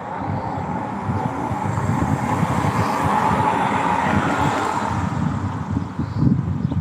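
Wind buffeting the microphone outdoors in gusts, under a rushing noise that swells to a peak midway and then eases.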